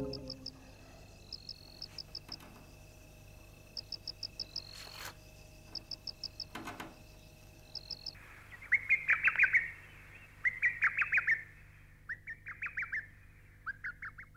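Bird calls: short high chirps in quick groups of four or five, repeated every second or two. About eight seconds in they give way to louder, rapid chattering calls in four bursts.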